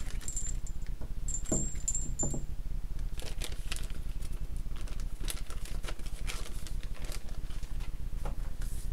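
Light, scattered clicks and taps of small metal brake parts being handled and set down on a workbench, over a low steady hum.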